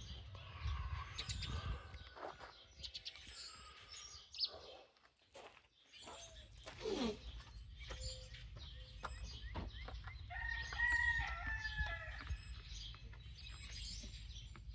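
A rooster crows once, about ten seconds in, a call of about two seconds. Around it are scattered light clicks and knocks from hand work on a generator's fuel hose and spring clamp.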